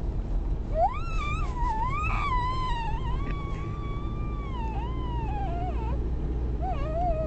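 A young child making a dolphin-like squeal with the voice: one long, high, wavering call lasting about five seconds, then a shorter one near the end. A steady low rumble runs underneath.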